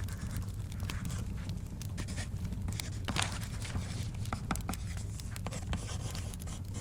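Wood fire crackling with many small sharp pops over a steady low rumble, and a paper page being turned about three seconds in.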